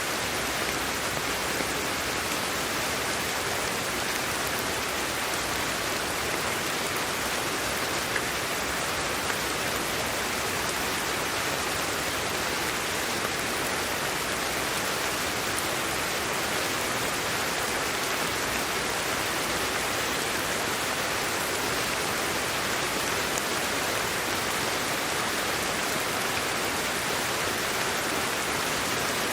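Steady, unchanging hiss of sleep-aid white noise, an even rushing sound like rain or falling water.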